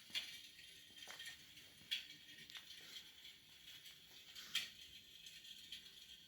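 Faint crackle sound effect of an electric fireplace's firebox imitating burning logs: irregular soft crackles and pops, the sharpest about two seconds in and again about four and a half seconds in.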